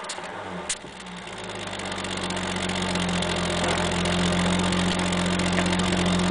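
1983 Toyota Celica Supra's twin-cam straight-six idling steadily at the tailpipe after a cold start, with a single sharp click about a second in; the exhaust note grows louder over the first few seconds, then holds.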